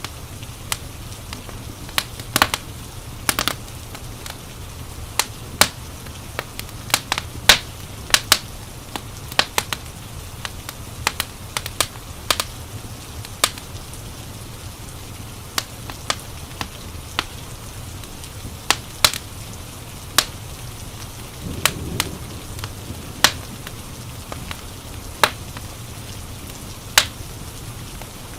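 Wood fire crackling, with irregular sharp pops, over a steady low rumble and the soft hiss of rain. There is a brief low swell about 22 seconds in.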